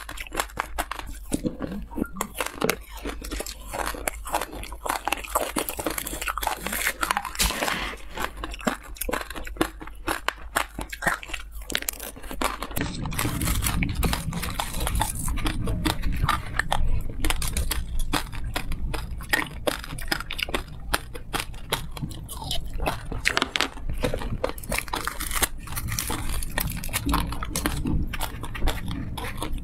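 Close-miked chewing and crunching of sprinkle-coated lollipop candy, a dense run of crisp crackles and clicks. A low hum comes in about halfway.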